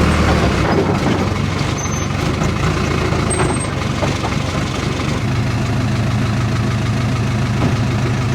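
Case 550G bulldozer's diesel engine running steadily, its note shifting slightly about five seconds in.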